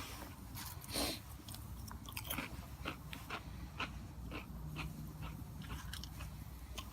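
A person chewing and crunching Cheez-It crackers, with many short crackling bites and a louder crunch about a second in.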